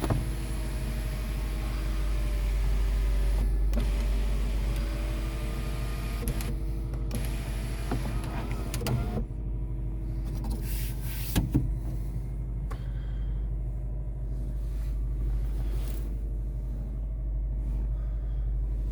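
2004 Subaru Forester XT's turbocharged flat-four engine idling steadily, with a few short clicks and knocks over it.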